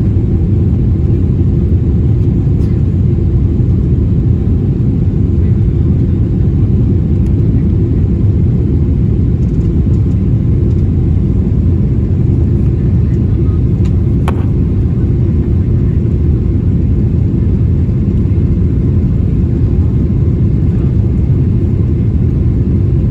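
Airliner's jet engines and airflow heard inside the cabin as a loud, steady low rumble during the climb after takeoff.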